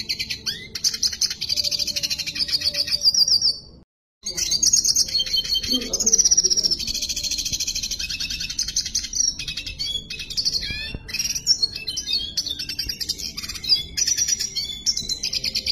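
Red siskin singing continuously: long runs of rapid twittering and trilled phrases, high-pitched. The song breaks off to silence for a moment about four seconds in, then resumes.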